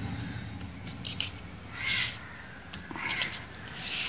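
A bird calling three short times, about a second apart.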